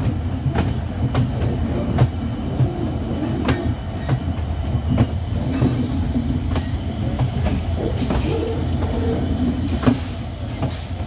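Steady low rumble of a passenger train standing or moving slowly at the platform, with light metallic clanks about once or twice a second at uneven spacing.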